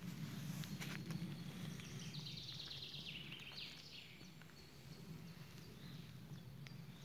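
Faint forest ambience with a songbird singing one quick descending trill about two seconds in, lasting about two seconds; a few soft clicks near the start.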